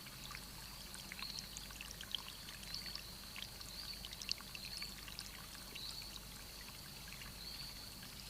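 Faint rainforest pool ambience: water trickling and dripping in many small scattered ticks. Over it runs a steady high trill that swells into short chirps about every second or so.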